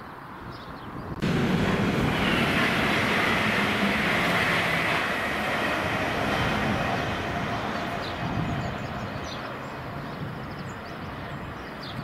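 LNER Azuma high-speed train running past on the main line: a loud, steady rush of wheel and rail noise that comes in suddenly about a second in and slowly fades. Faint bird chirps near the end.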